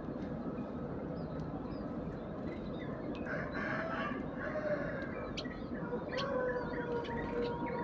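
A rooster crowing, with a long drawn-out crow in the second half, over scattered short chirps of Eurasian tree sparrows.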